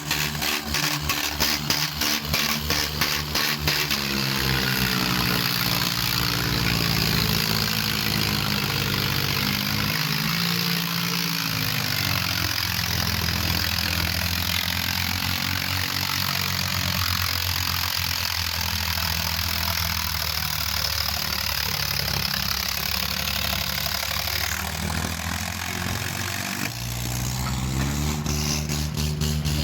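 Diesel tractor engines running hard, their pitch rising and falling as they are revved, with a rapid even pulsing in the first few seconds and again near the end.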